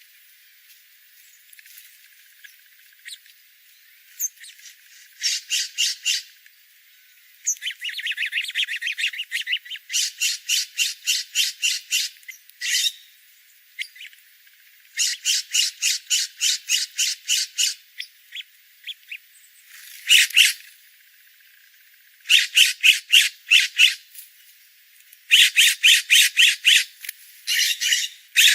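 Small birds calling in rapid chattering runs of short, high notes, about seven notes a second. Each run lasts a second or two, with short pauses between. The runs start a few seconds in and come closer together near the end.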